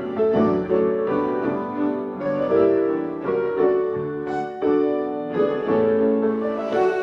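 Slow instrumental music played on piano, its notes and chords struck every half second to a second and left to ring.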